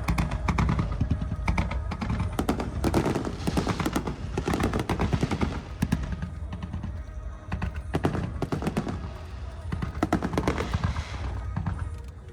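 Aerial fireworks going off in rapid volleys of many quick bangs and crackles, in bursts of a few seconds with short lulls between.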